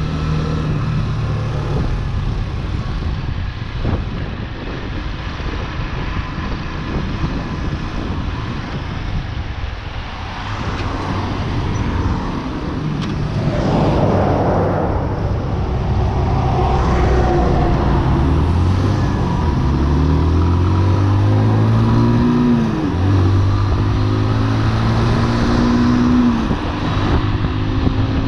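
A Chopper Road 150cc motorcycle engine running under way, with the rush of riding beneath it. In the second half the engine note climbs, drops abruptly at a gear change, then climbs again as the bike accelerates.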